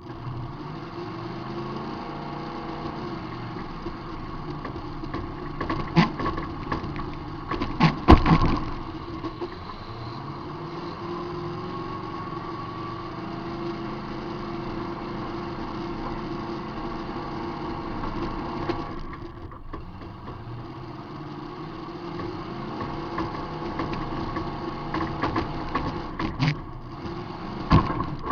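Demolition derby car's engine running and revving up and down, heard from inside the car, with sharp crash impacts about six and eight seconds in and a cluster again near the end; the one about eight seconds in is the loudest.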